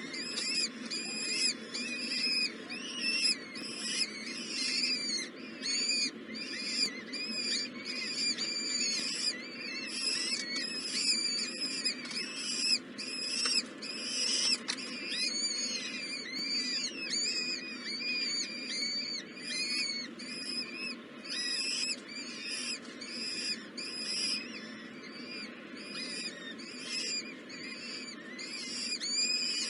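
Nestling birds chirping rapidly and continuously: short, high, arched chirps repeating several times a second, over a steady low background noise.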